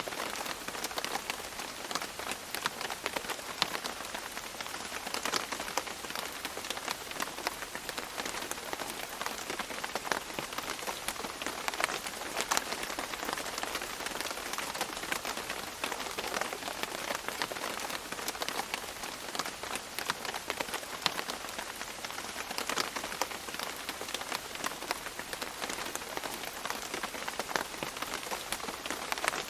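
Steady rain falling on rainforest leaves: a dense patter with many separate drops ticking.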